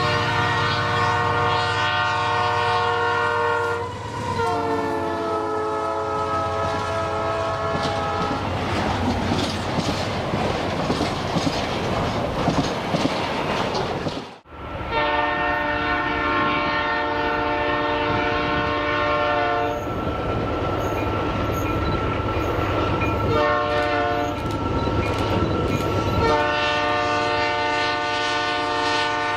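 Train horns sounding in long blasts, then the rumble and clickety-clack of a passing train. The sound cuts out abruptly about halfway through, and train horns sound again in long blasts with short breaks.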